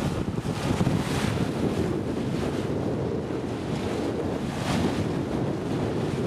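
Wind buffeting the microphone over water rushing and splashing along the hull of a small sailing yacht under way, with two louder swishes of water about a second in and about four and a half seconds in.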